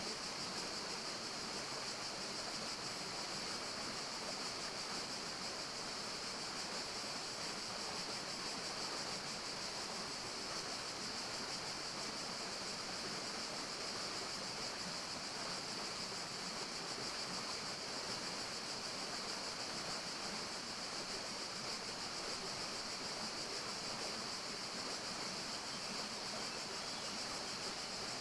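Steady forest ambience of flowing water: a continuous, even rushing hiss, with a steady high-pitched hiss over it that never changes.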